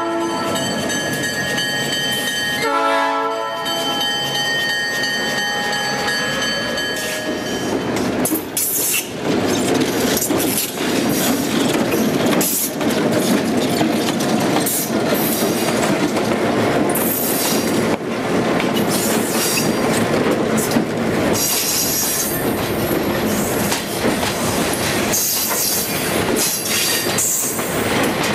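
Diesel locomotive's chime air horn, several steady tones at once: the tail of one blast right at the start, then a long blast from about three to seven seconds in. After it the locomotive and a stainless-steel passenger car roll slowly past close by, wheels clicking over the rail joints and squealing several times in the second half.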